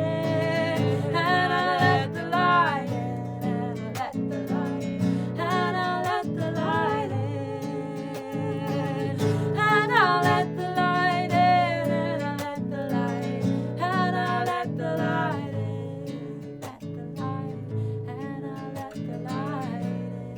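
Live acoustic music: a strummed acoustic guitar with a voice singing over it in long, sliding notes, without clear words. The voice drops back in the last few seconds while the guitar carries on.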